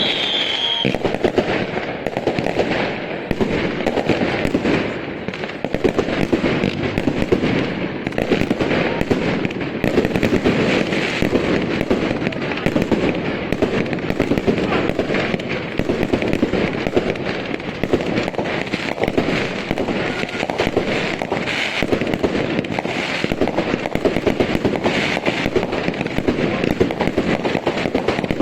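Professional fireworks display: a dense, unbroken barrage of shell bursts and rapid pops.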